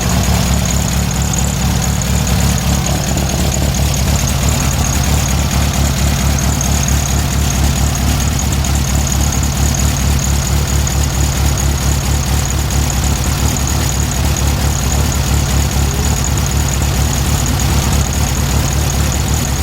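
Air-cooled Volkswagen Beetle flat-four engine idling steadily, with a new CB Performance Magnaspark II electronic distributor, while its ignition timing is being checked. A thin steady high whine runs over the engine.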